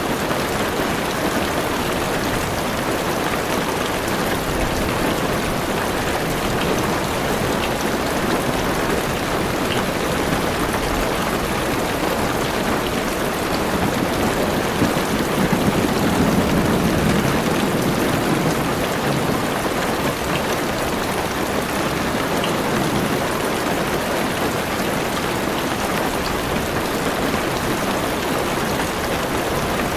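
Steady heavy rain drumming on a car's roof and windows, heard from inside the car. A low rumble of thunder swells and fades about halfway through.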